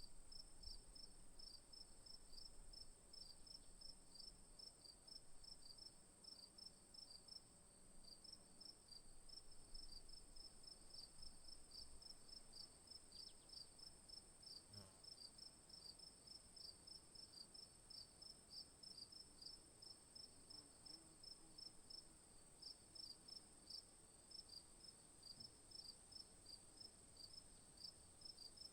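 Faint insect chorus: a steady high-pitched drone with crickets chirping in rapid, even pulses, pausing briefly about nine seconds in.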